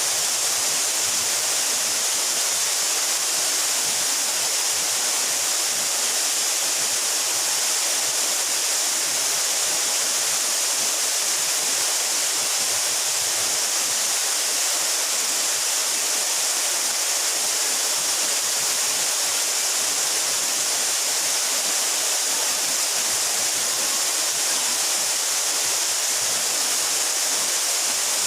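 Waterfall about 12 metres high, water falling steadily onto rock and pool, a constant hiss-like rush with no change.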